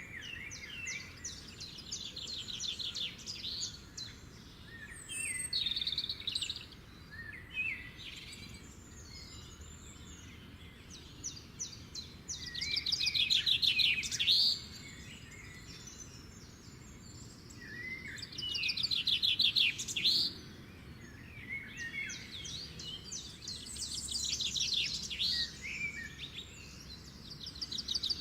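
Songbirds singing: repeated phrases of fast trills and chirps, with two louder trilled songs around the middle, each ending in a quick sweep.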